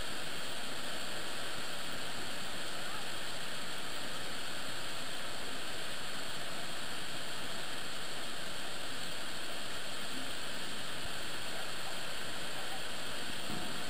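Niagara Falls: the steady rush of a huge volume of falling water, an even, unbroken noise.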